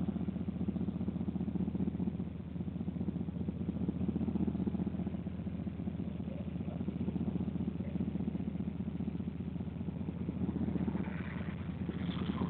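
A motor vehicle's engine idling steadily with a low, even hum.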